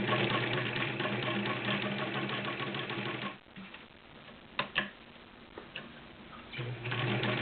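Vintage Singer 306K sewing machine stitching through six layers of denim below full speed: a steady motor hum with fast needle ticking. It stops about three seconds in, two sharp clicks follow, and it starts sewing again near the end.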